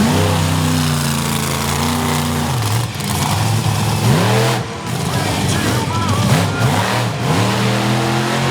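Bounty Hunter monster truck's engine revving hard, its pitch dropping and climbing again several times as the throttle is worked.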